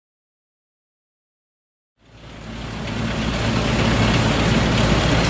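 Dead silence for about two seconds, then a combine harvester's diesel engine fades in and runs steadily.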